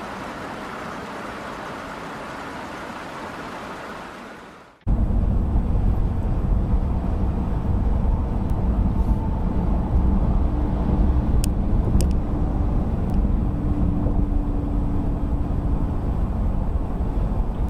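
Car driving, steady road and engine noise. About five seconds in it cuts abruptly to a louder, low rumble, with a few faint clicks partway through.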